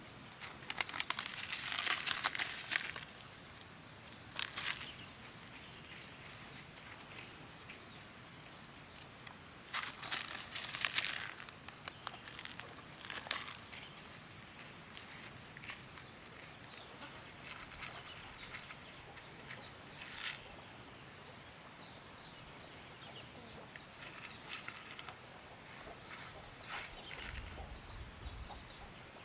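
Bursts of rustling and crunching, like footsteps and handling of dry plant material, with scattered sharp clicks over a quiet outdoor background. The loudest bursts come near the start and again about ten seconds in.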